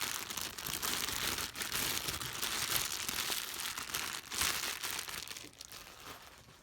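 Crinkling and rustling with many small crackles, as of thin material being crumpled or handled, dying down near the end.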